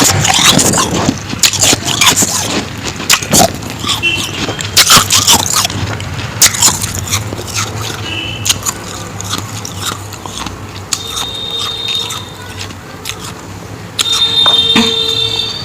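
Close-miked biting and chewing of powdery freezer ice: a run of sharp crunches, then softer crackling as it is chewed, with a few thin high squeaks near the end.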